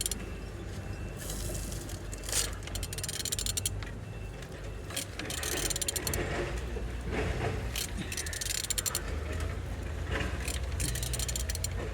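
A Renault K9K 1.5 dCi four-cylinder diesel engine being turned over by hand with a ratchet wrench: runs of rapid ratchet clicks, about five times, with the mechanical sound of the engine turning. The engine turns good, so it is not seized.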